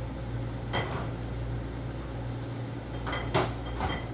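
Light clinks and taps of a mug and small items as supplement capsules are emptied into coffee: one clink about a second in and a quick cluster near the end, each with a short ring. A steady low hum runs underneath.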